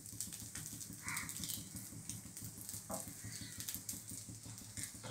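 Faint sizzle of a rice-flour and semolina dosa frying in a little oil on a hot pan, over a low steady hum, with a brief faint sound about a second in.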